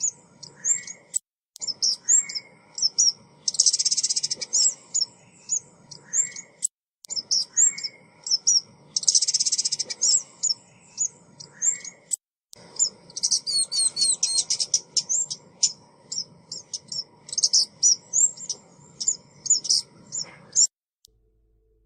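Lure recording of a female ốc mít bird calling: quick high chirps and short dense trills repeated over and over, broken by a few abrupt gaps where the recording is looped, and stopping suddenly near the end.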